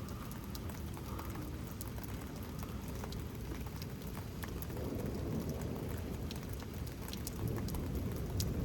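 Steady rain falling, with scattered individual drops ticking close to the microphone.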